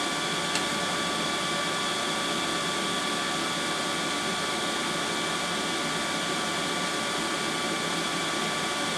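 A steady machine whir: an even hiss with a few faint steady whine tones, and one faint click about half a second in.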